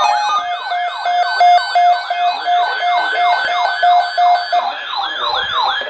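Electronic alert siren: rapid falling wails, about three or four a second, layered with a pulsing steady tone that drops out about four and a half seconds in; the wails then stop abruptly near the end. It is the alert sound announcing an emergency flash flood watch broadcast.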